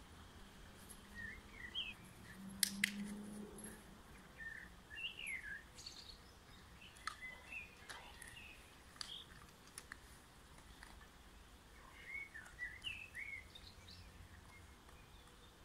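Small birds chirping in short, scattered bursts against a quiet background, with a few sharp clicks, the loudest about two and a half seconds in.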